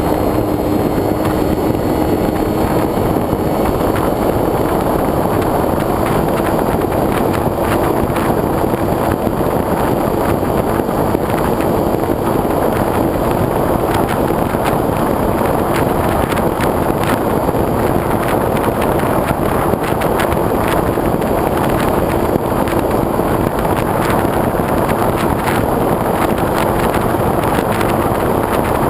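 Wind rushing over a GoPro mounted on the wing of a foam RC airplane in flight, with a faint steady hum underneath and scattered crackles of buffeting.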